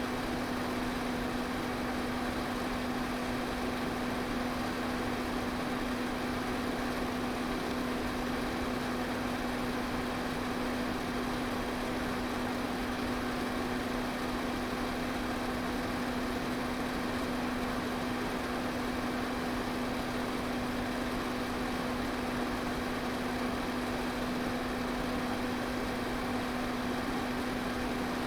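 Electric pedestal fan running steadily: an even rush of air with a constant low motor hum underneath.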